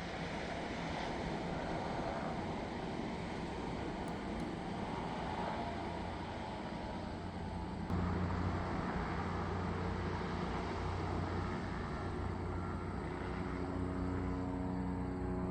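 Steady engine drone over outdoor background noise; about halfway through it gets louder as a low, steady hum comes in.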